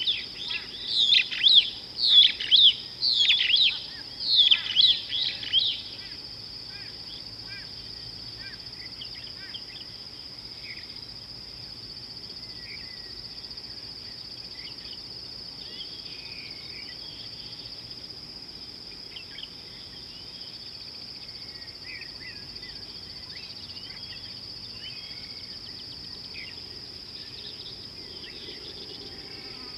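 A bird calling loudly in quick repeated chirps for about the first six seconds, then fainter scattered bird calls. Underneath, a steady high-pitched insect drone runs throughout.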